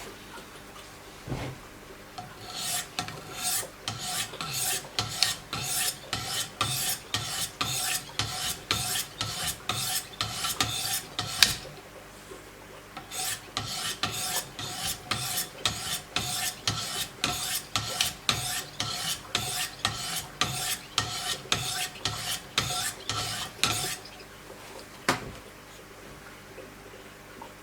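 Diamond sharpening stones of a Wicked Edge guided system stroked rhythmically along the edge of a Giant Mouse GMF2 knife blade, a rasping stroke about two and a half times a second. The strokes come in two runs with a short pause near the middle, and a single knock sounds near the start and again near the end.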